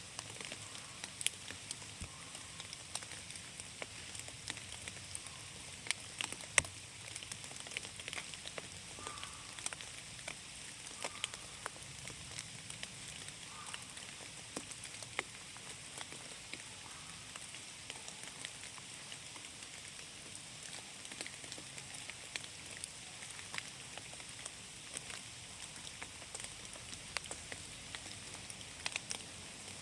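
Rain falling in a forest: a steady hiss of light rain with raindrops tapping irregularly, a few louder drops about a second in and around six seconds in.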